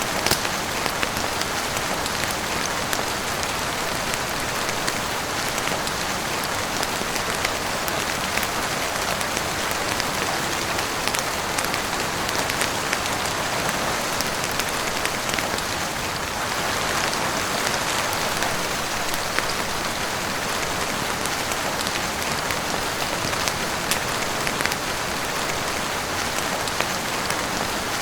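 Steady heavy rain falling on a roof, an even wash of noise sprinkled with many small sharp drop ticks.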